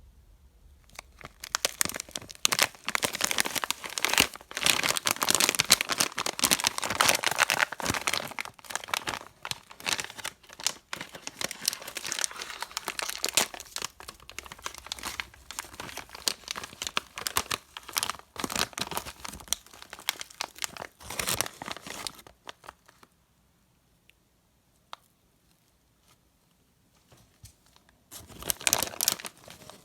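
Plastic candy wrappers being crinkled and torn open, a dense, rapid crackling for about twenty seconds. It stops for several seconds of near silence, then crinkles again briefly near the end.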